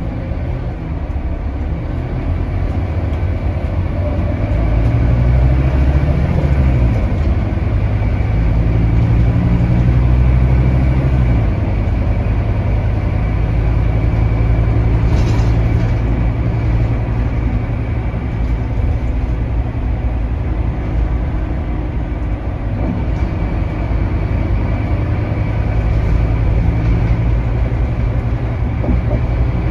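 Scania DC9 diesel engine of a city bus running under way. It pulls with rising pitch early on, eases off about eleven seconds in, then runs steadily.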